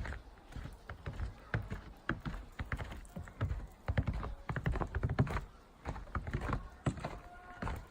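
Footsteps crunching through snow in an irregular, uneven rhythm of soft knocks, with low rumble from handling or wind on the microphone.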